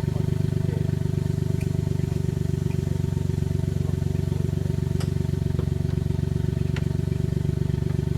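Off-road 4x4 engine running steadily at a constant low speed, with a few faint clicks.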